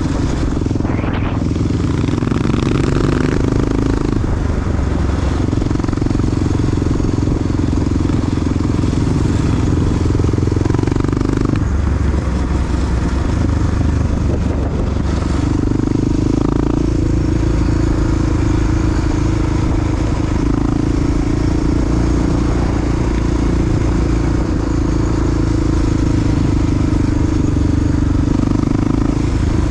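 Big single-cylinder four-stroke Honda XR dual-sport engine running under way, with rushing noise behind it. The engine note shifts a few times with throttle and gear changes.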